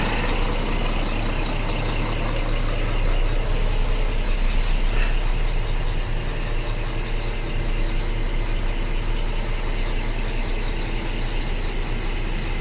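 Scania G420 truck's six-cylinder diesel engine idling steadily. About three and a half seconds in comes a short, two-part hiss of compressed air venting from the truck's air system.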